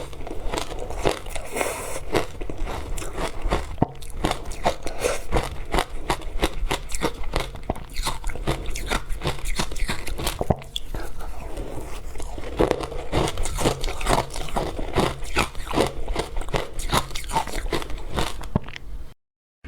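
Frozen matcha ice being bitten and chewed close to the microphone: a dense, irregular run of sharp crunches and crackles. The sound drops out completely for a moment near the end.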